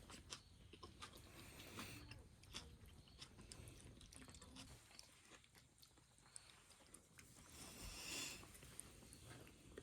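Faint sounds of a person eating noodle stew: quiet chewing with small scattered clicks, and a brief louder noise about eight seconds in.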